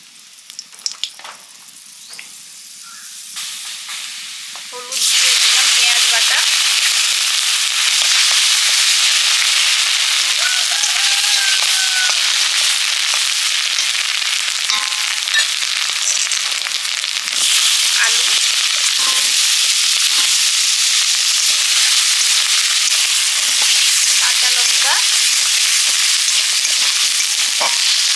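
Nigella seeds crackling faintly in hot oil in a wok. About five seconds in, onion paste goes into the oil and a loud, steady sizzle starts at once, with a metal spatula stirring through it. The sizzle dips briefly a little past halfway, then picks up again as strong as before.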